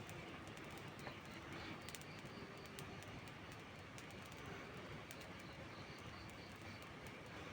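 Steady rain on and around a hut, with a wood fire crackling in sharp little snaps. From about halfway through, a bird calls in a quick run of repeated high notes, about three a second.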